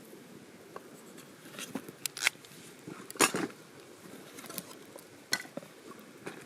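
Camp cooking gear being handled: sporadic sharp clicks and clinks, the loudest a little after two seconds and about three seconds in, over a low hiss.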